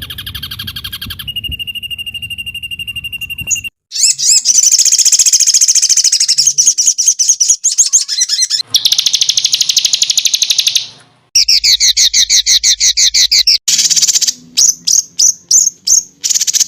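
Songbird master recording of the kind used to tutor caged birds: a spliced sequence of loud calls. A fast trill, then a held high whistle, then long runs of rapid high chattering trills, then a string of short sharp chips near the end, each section cut off abruptly.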